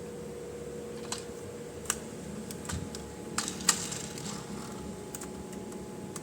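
Light, scattered clicks and taps of small plastic toy pieces and packaging being handled, about seven in all and irregularly spaced, over a steady faint hum.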